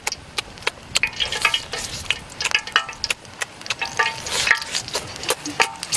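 Eating roast chicken close to the microphone: a run of irregular wet clicks, smacks and crackles as the crisp skin and meat are bitten and chewed.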